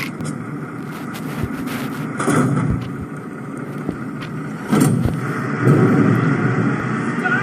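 Garbage truck running with a noisy mechanical rumble, broken by sharp clanks and knocks: one at the start, one about two seconds in and a louder one about five seconds in.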